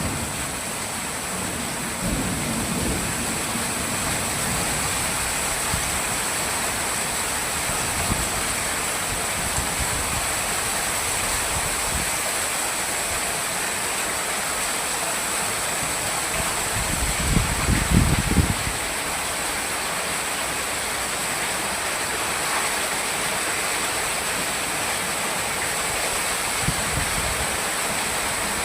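Heavy rain pouring down steadily, with low thunder rumbles: a short one about two seconds in and a louder one lasting about a second and a half around the middle.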